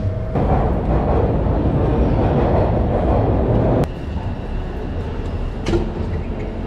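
Loud, steady vehicle noise without a clear pitch, like a train running. It cuts off abruptly about four seconds in, leaving quieter background noise with a couple of faint clicks.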